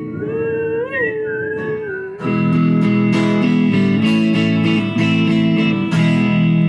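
Acoustic band music: a held lead melody that bends up in pitch and back, then from about two seconds in loud, steady strummed acoustic guitar chords take over.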